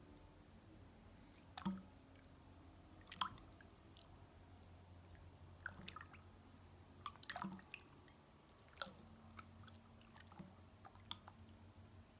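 Slime being handled, making faint squishes and small sticky clicks and pops at irregular moments. A faint low hum runs underneath.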